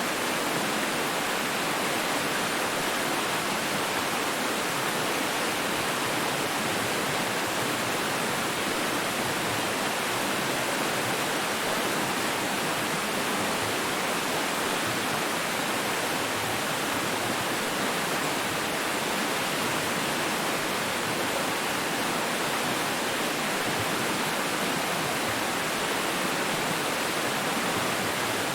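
Steady rush of flowing water, an even hiss with no splashes or drops standing out.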